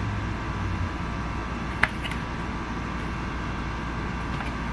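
Steady low background hum, with one small sharp click about two seconds in as parts of a stripped Glock-style BB pistol are handled.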